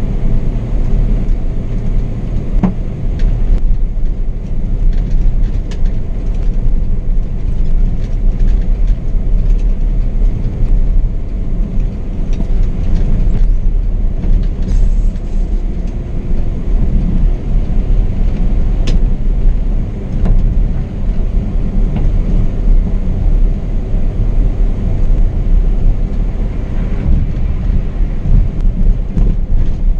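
Scania K420 double-decker coach under way on the highway: a steady, loud low rumble of engine, tyre and wind noise, with a couple of sharp clicks or rattles.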